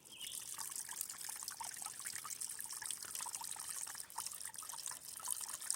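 Water trickling and dripping from a CamelBak hydration pack's tube into a dog's water bowl, a fast irregular patter that starts suddenly.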